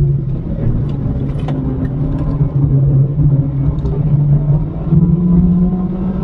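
Mini R56 John Cooper Works track car's turbocharged four-cylinder engine running under load at speed, heard inside the cabin, with tyre and road noise. The engine note dips slightly about a second in and climbs again near the end.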